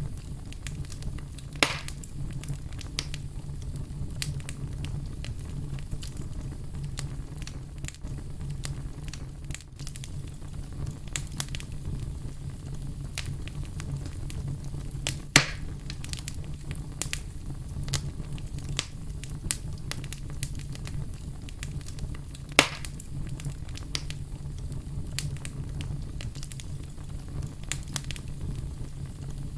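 Wood fire burning with a steady low rumble and frequent sharp crackles, and three louder pops about two, fifteen and twenty-three seconds in.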